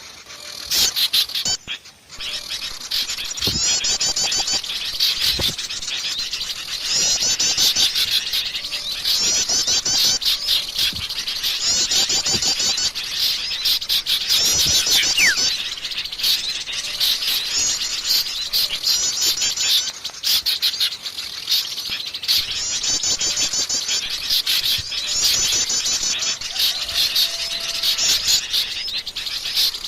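Dense chorus of many small songbirds chirping and chattering, with a rapid trill repeating about every two seconds: a bird-lure call recording mixing bulbuls and other small birds.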